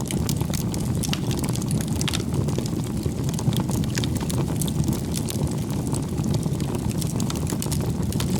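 Bonfire of burning firewood: a steady low rush of the flames with frequent sharp crackles and pops from the wood.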